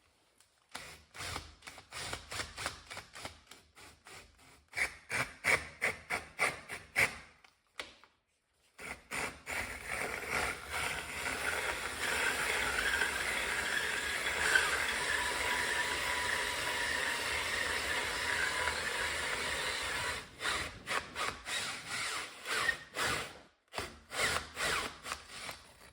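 Electric drill boring a hole. It runs in short bursts for the first several seconds, then runs steadily for about ten seconds, then goes back to short bursts near the end.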